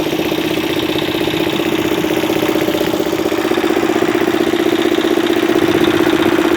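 An engine idling steadily: a loud, even hum with a fast, regular pulse.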